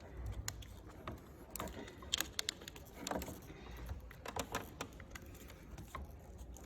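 Scattered light clicks and taps of small parts being handled and pressed into place in a motorcycle handlebar switch housing.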